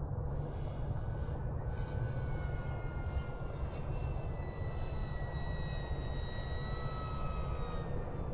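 Electric ducted-fan RC jet flying, its fan whine slowly falling in pitch over a heavy low rumble of wind on the microphone.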